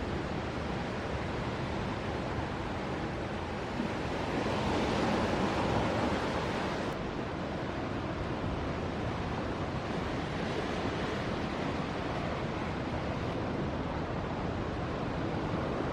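Ocean surf: waves breaking in a steady rush, which swells louder for a few seconds about four seconds in.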